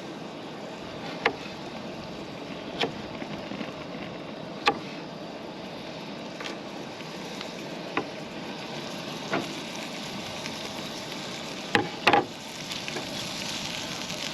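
Knife cutting peppers on a cutting board, a sharp tap every second or two with a quick double tap near the end, over a steady sizzle of food frying in a pan that gets louder near the end.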